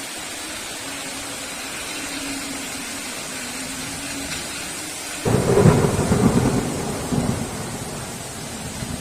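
Steady heavy rain, then about five seconds in a sudden crack of thunder that breaks into a deep rumble and fades away over the next two or three seconds.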